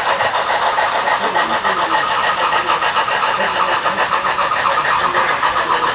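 HO-scale Union Pacific steam locomotive models running with a steady, fast rhythmic chuff and the running noise of the train, with faint voices in the background.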